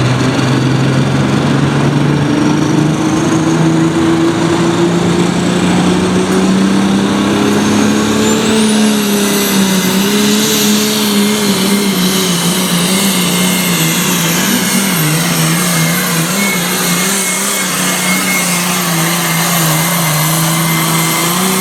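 Light limited super stock pulling tractor's turbocharged diesel engine running hard under load down the track. Its note climbs over the first few seconds, then holds with a slight waver. A high turbo whistle climbs about eight seconds in and holds.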